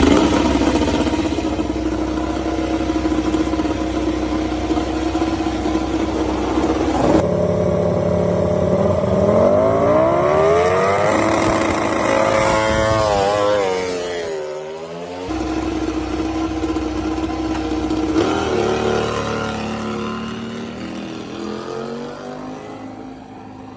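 MotoGP racing motorcycle engines, first held at steady high revs. About a third of the way in a bike accelerates with its pitch climbing, then the pitch drops and climbs again. Steady high revs return, and the sound fades near the end.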